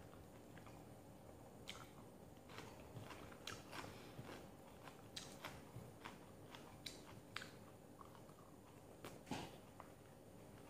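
Faint close-up chewing and biting of vegetables: irregular crisp clicks and small crunches from the mouth, the loudest about nine seconds in.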